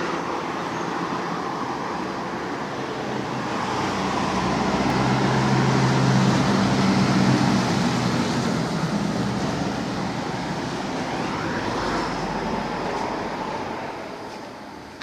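Road traffic noise, with a vehicle's engine drone growing louder to a peak about six to eight seconds in and then fading as it passes, over steady tyre and road noise.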